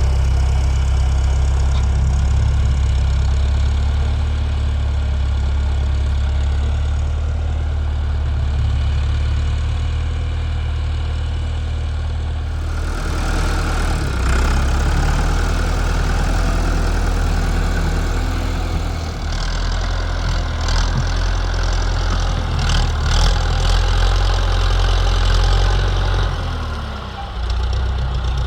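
Tractor engine running with a steady low rumble; about twelve seconds in the sound turns harsher and noisier, and near the end the engine note drops briefly and comes back up.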